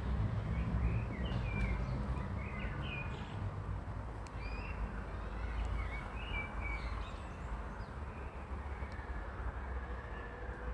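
Small birds chirping and calling several times, mostly in the first two-thirds, over a steady low rumble.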